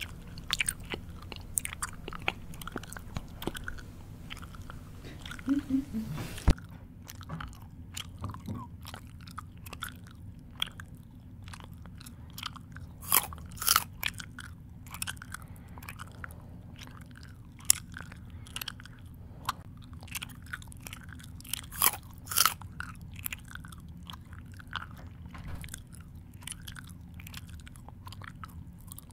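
A person chewing food close to the microphone: irregular wet mouth smacks and clicks with occasional louder crunches. A low hum beneath it changes abruptly a little over six seconds in.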